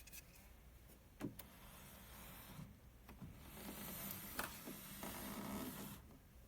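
Faint rubbing and two light knocks of a molded-plastic humidifier housing being handled, with a soft scraping hiss for a few seconds in the second half.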